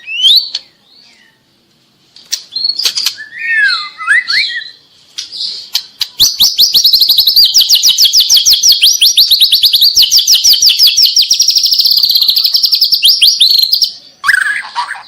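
White-rumped shama (murai batu) singing. A few short varied whistled phrases come first, then about eight seconds of loud, fast, evenly repeated notes: the rapid-fire 'trotol' delivery.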